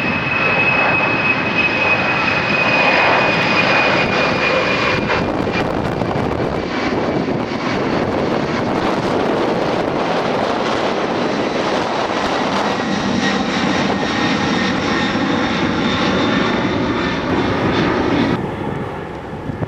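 Jet airliner taking off, its engines at takeoff power: a loud, dense jet noise with a high whine that slowly falls in pitch. The sound drops off suddenly about a second before the end.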